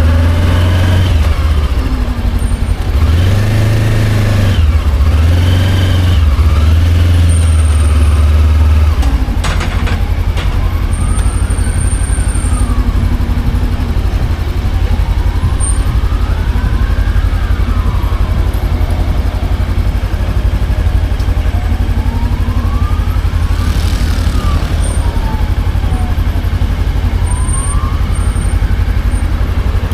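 Motorcycle engine running on the move over a steady rush of road noise, its note rising and falling several times as it speeds up and eases off. There is a short sharp click about nine or ten seconds in.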